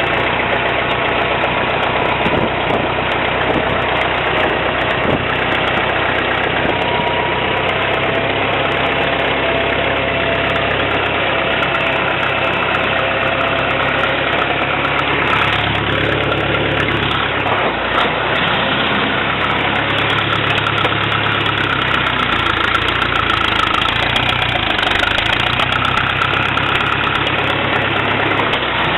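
International Harvester 300 Utility tractor's four-cylinder petrol engine running steadily, its speed dipping briefly a little past halfway and then settling back.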